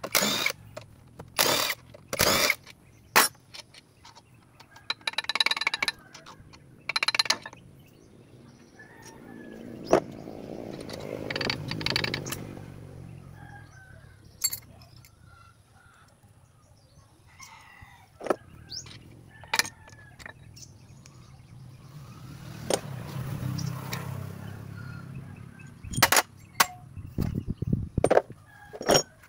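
Sharp metallic clinks and knocks of tools and engine parts being handled during an engine teardown, with a couple of short rasping bursts. A low rumble swells and fades twice, about ten seconds in and again near twenty-three seconds.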